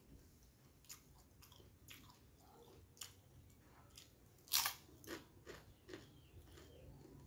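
Close-up chewing and biting of fried martabak, with short, sharp crunches every second or so. The loudest crunch comes about four and a half seconds in, as a fresh bite is taken.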